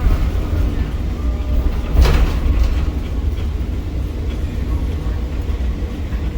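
Steady low rumble of a gantry crane's machinery, heard from the operator's position, with a sharp click about two seconds in.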